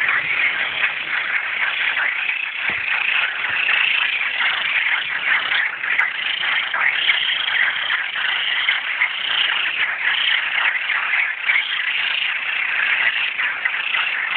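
A dense chorus of many frogs calling at once, overlapping calls merging into a continuous pulsing din: males calling in a breeding chorus.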